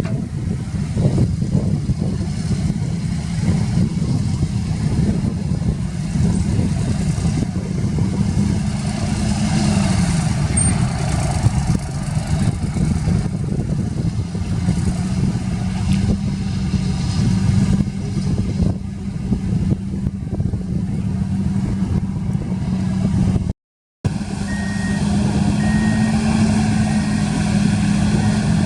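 Heavy diesel engines of earthmoving machinery running steadily, the pitch rising and falling as they work. Near the end, after a brief cut, a reversing alarm beeps several times over the engine.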